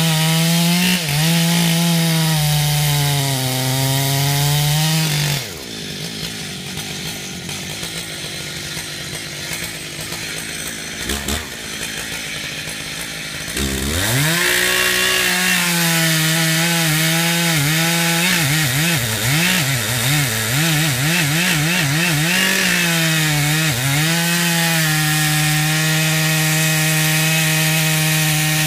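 Two-stroke chainsaw running at high revs with brief dips, dropping to idle about five seconds in, then revved back up some eight seconds later, its pitch wavering rapidly up and down for a few seconds before holding steady at full speed.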